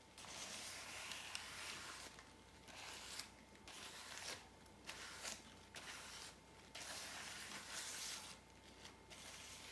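Faint rustling and crinkling that comes and goes in short spells: things being handled and cleared away by hand.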